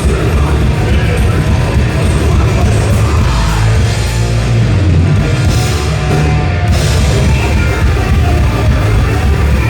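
Thrash metal band playing live at full volume: distorted electric guitars, bass and drum kit, with a held low note around the middle.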